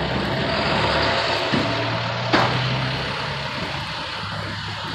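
Street traffic noise: a vehicle engine running with a steady low hum under a broad rush of road noise, and one sharp click a little past two seconds in.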